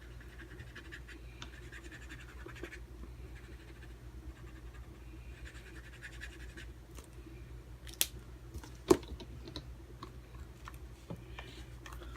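Side of a felt-tip marker rubbed in short, scratchy strokes while colouring a stamp, in two spells. Two sharp clicks follow about eight and nine seconds in.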